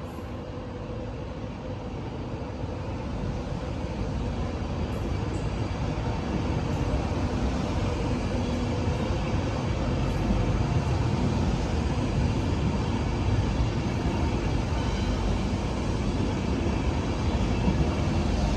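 A train moving at a station platform, its low rumbling running noise growing steadily louder.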